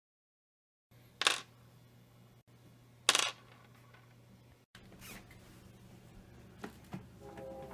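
Two sharp clicks about two seconds apart, then faint small knocks. Music starts near the end.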